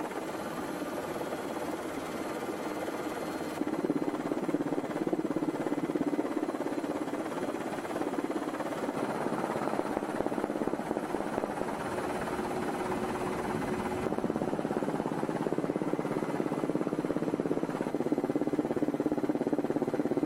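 Steady helicopter engine and rotor drone, with abrupt shifts in level and tone about three and a half seconds in and again near the end where the footage is cut.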